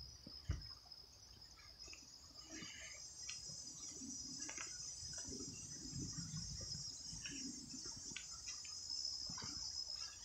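Steady high-pitched chorus of crickets and other insects in woodland, with soft, irregular footsteps and rustling on a dirt trail underneath.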